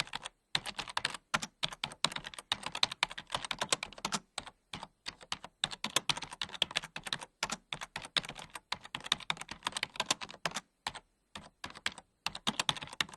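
Rapid computer keyboard typing: a dense, irregular run of clicks, several a second, broken by brief silent gaps.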